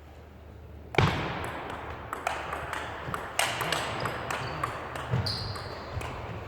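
Table tennis rally: a celluloid/plastic ball clicking off rackets and bouncing on the table in quick irregular strokes, starting with a loud hit about a second in.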